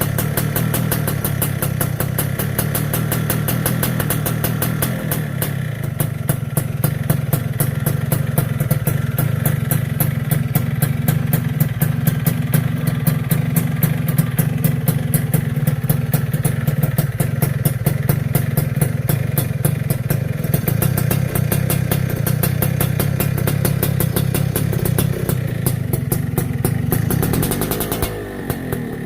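Suzuki Satria's single-cylinder two-stroke engine idling steadily through a YY Pang Cobra aftermarket exhaust, with a rapid pulsing note. Near the end the engine speed dips briefly and then picks up again.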